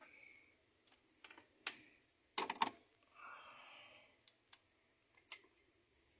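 Scattered metal clicks and knocks of hand tools on the engine as work starts on removing the cylinder head, with a cluster of louder knocks about two and a half seconds in.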